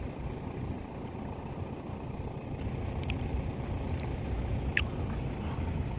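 Safari vehicle's engine idling with a steady low rumble, with a couple of brief high squeaks about halfway through.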